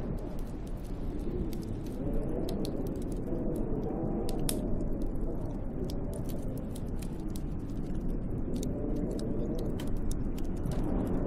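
Snowstorm wind blowing steadily, moaning with a slowly rising and falling pitch, with many scattered sharp ticks and crackles over it.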